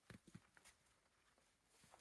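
Near silence, with three or four faint soft knocks in the first half second and one more near the end.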